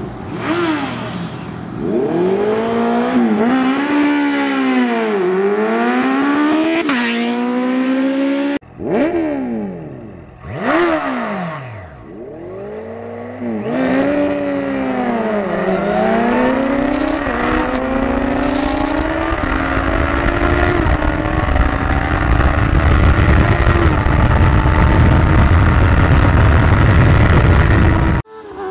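Honda CBR650F inline-four sport-bike engines revving hard, the pitch sweeping up and down again and again. They then pull away under full throttle, the pitch climbing in steps with each upshift while wind rush builds on the microphone.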